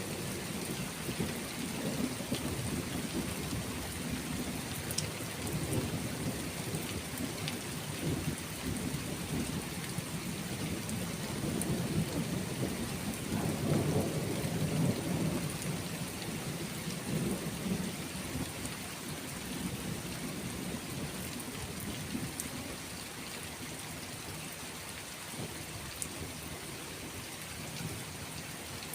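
Steady rain falling, with rolling thunder rumbling low underneath. The thunder swells to its loudest about halfway through, then dies away, leaving mostly rain.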